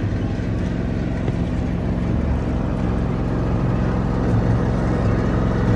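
Propeller airplane's piston engine idling, a steady low drone.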